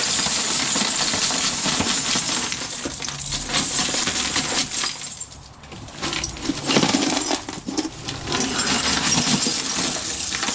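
A batch of dug metal-detecting finds (coins, pull tabs, foil and junk jewelry) being dumped out and spread by hand: a dense clinking rattle of small metal pieces, which eases off briefly about halfway through and then picks up again.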